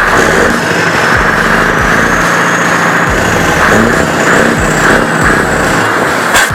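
Scania R500 V8 truck engine running loud through its exhaust pipes, with a music track faintly underneath.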